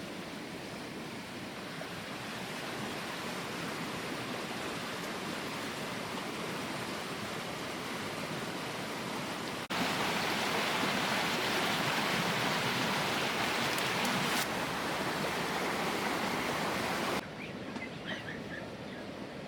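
Steady hiss of water, jumping louder and brighter about ten seconds in and dropping back abruptly near the end.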